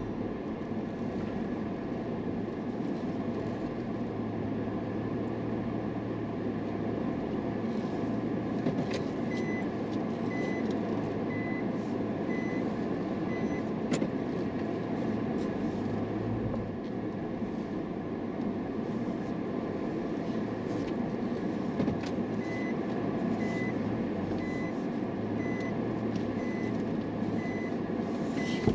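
Steady vehicle engine and running noise. Twice, for several seconds, a high electronic beep repeats about twice a second.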